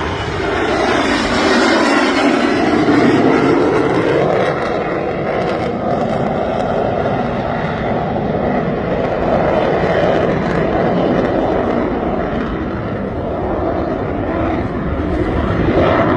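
Airplane engine running loud and steady as the plane flies a display pass, swelling a little in the first few seconds.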